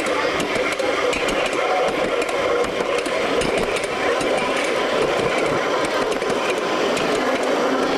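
5-inch gauge ride-on miniature train running steadily along its track, a continuous running noise with light ticking.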